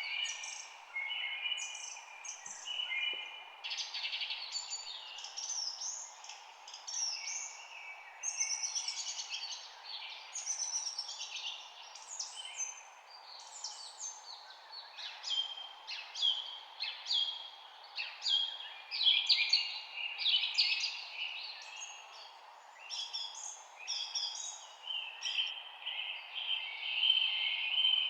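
Several songbirds chirping and trilling, many short overlapping calls with quick pitch sweeps, over a steady faint background hiss.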